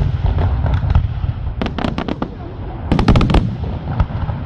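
Aerial fireworks going off: a low, continuous rumble of shell bursts with two quick volleys of sharp crackling bangs, one about one and a half seconds in and a louder one about three seconds in.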